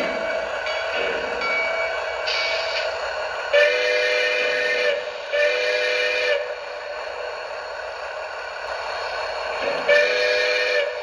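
O gauge model train's sound unit sounding two long chord-like horn blasts, then a third near the end, over the steady running sound of the moving train.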